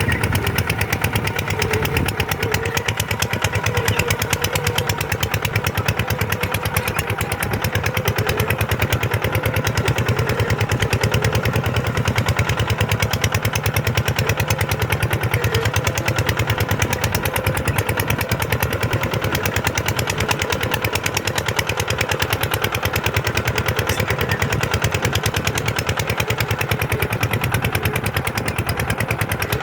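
Kubota tractor's diesel engine running steadily under even load, with a fast, regular firing beat and no change in speed.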